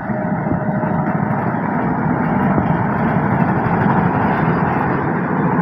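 Train passing close by: a steady rumble of wheels on the rails that grows slightly louder.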